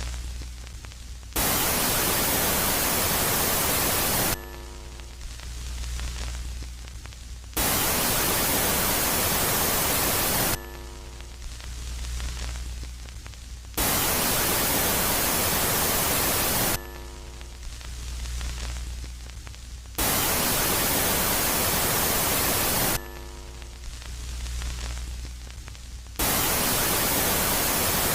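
Electronic 'space sound' track billed as the sound of Jupiter's moon Megaclite. It switches between a loud phase of full-range hissing static and a quieter phase of low hum with faint steady tones, each lasting about three seconds, so the loud static comes in five times.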